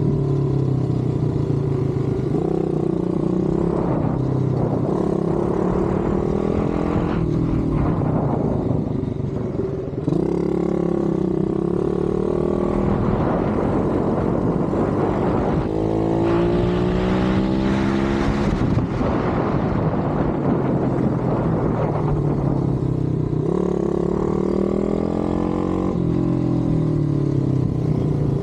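Pit bike engines running hard, revving up and down in pitch as the bikes race, with two engines at different pitches heard together about two-thirds of the way through.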